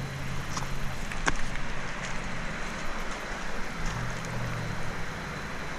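Steady rushing outdoor noise under a low droning hum from a distant motor that fades and returns, with a few faint clicks.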